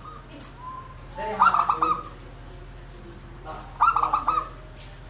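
Zebra dove (perkutut) cooing: two rolling, rapidly pulsed calls about two and a half seconds apart, over a faint steady low hum.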